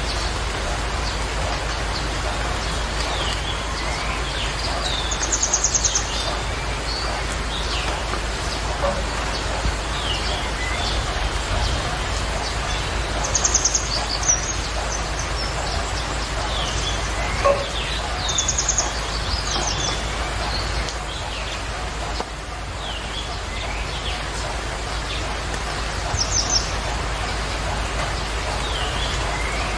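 Birds chirping: short rapid trills every several seconds and scattered quick falling chirps, over a steady hiss.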